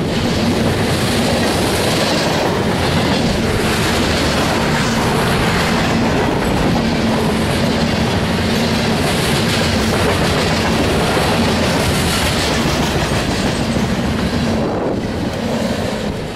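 Freight train of tank cars, covered hoppers and boxcars passing at close range: the loud, steady rolling noise of steel wheels on the rails, with a low steady hum. The sound eases slightly near the end.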